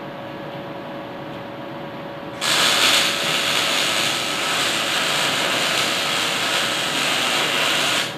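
Welding arc crackling and hissing on steel. It starts suddenly about two and a half seconds in, holds steady for about five seconds, and cuts off near the end, over a steady background hum.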